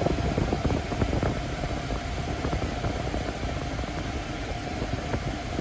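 Hyundai Porter II refrigerated truck running at idle, with its air-conditioning and refrigeration fans blowing steadily.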